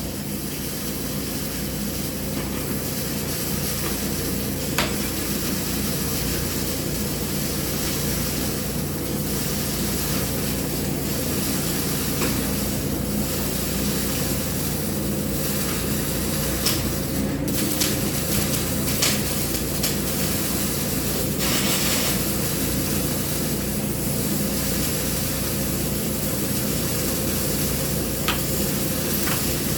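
TIG welding arc burning steadily on carbon steel pipe: an even hiss over a low steady hum, with a few faint clicks.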